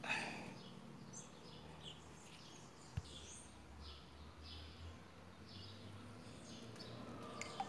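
Faint bird chirps, short and high, repeating at irregular intervals over quiet outdoor background noise. A brief rustle at the start and one sharp click about three seconds in.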